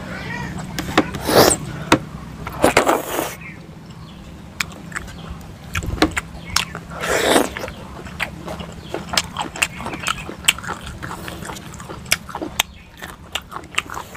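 Close-miked mouth sounds of a person eating pork and rice: chewing and lip-smacking heard as many short wet clicks, with a few louder, longer mouth sounds, over a steady low hum.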